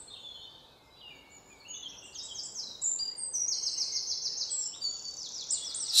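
Several birds singing and calling together, with rapid runs of short, high chirps that grow louder from about two seconds in.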